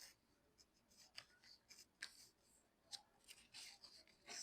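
A sheet of paper being folded and creased by hand: faint, scattered crinkles and rustles.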